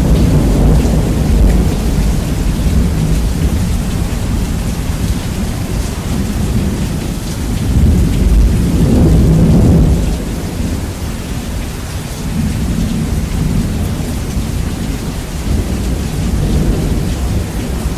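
Steady heavy rain with rolling thunder, bass heavily boosted. A deep thunder rumble swells about halfway through, then eases.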